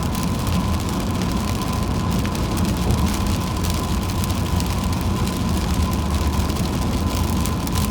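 Steady road noise of a car driving on a wet highway in heavy rain: a low rumble with an even hiss of tyres on the wet road and rain on the car, and a thin steady whine throughout.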